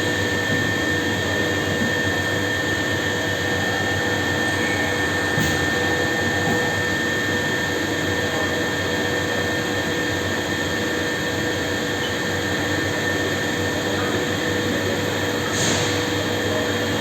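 HAAS ST-30 CNC lathe running under power: a steady machine hum and whine with several fixed tones over an even hiss.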